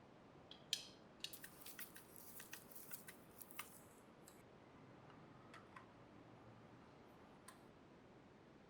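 Small sharp clicks and taps in quick succession for about three seconds, then a few single clicks spaced out, over near silence.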